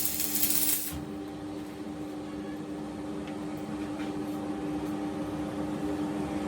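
A loud hiss, like air or spray escaping, cuts off suddenly about a second in. A steady mechanical hum goes on underneath throughout.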